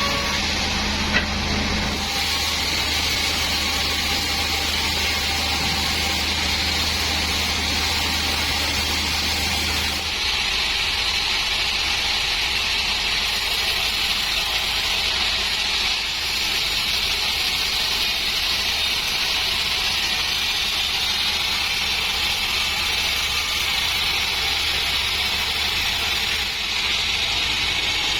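Large sawmill band saw running steadily as it cuts a dry acacia log, with a constant high-pitched noise; a low hum underneath stops about ten seconds in.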